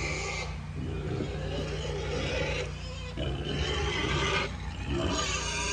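Farm animals calling loudly and almost without pause, with a low steady hum underneath.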